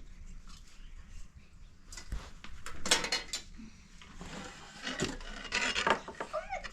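Irregular clattering and rubbing of hard objects in several short spells.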